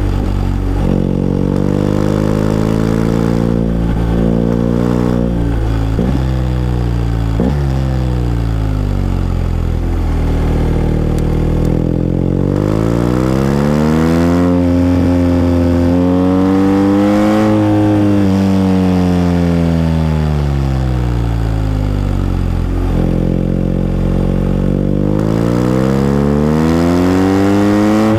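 BMW R1250GS boxer-twin engine riding a winding road, its revs falling off and jumping quickly back up several times in the first few seconds. Then a long, smooth rise in engine pitch that falls away again and climbs once more near the end, under a layer of wind noise.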